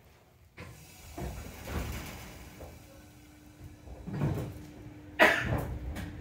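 Seibu 101 series resistance-controlled electric train starting to move out of a station, heard inside the passenger car: a series of clunks and knocks from the car, a steady hum from about two and a half seconds in, and a sharp loud bang about five seconds in.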